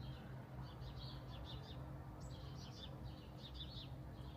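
Small birds chirping faintly and repeatedly over a low steady hum.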